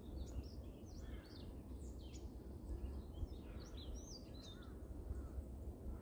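Small birds chirping in the trees, many short overlapping calls that rise and fall, busiest in the middle, over a low steady background rumble.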